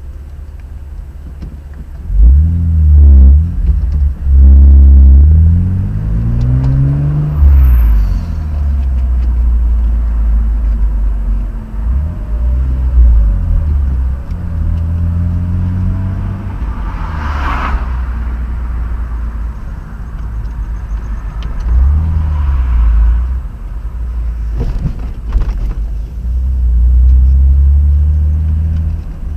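Car engine and road noise while driving, the engine's pitch rising and falling several times as it speeds up and eases off.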